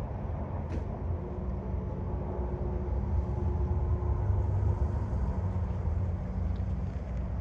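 Heavy truck engine running with a steady low rumble and hum.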